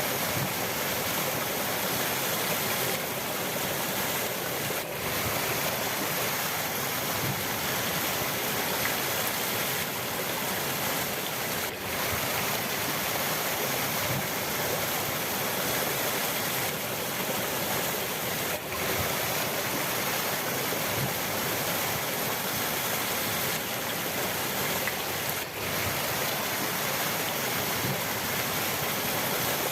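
River water rushing steadily over rocks, a continuous even roar, with brief momentary dips in level about every seven seconds.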